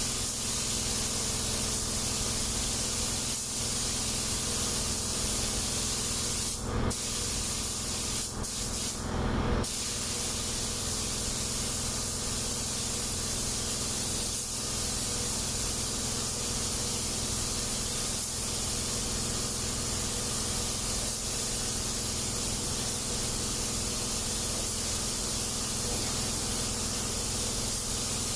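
Compressed-air paint spray gun hissing steadily while painting a car panel, with a steady hum underneath and two short louder bursts about seven and nine seconds in.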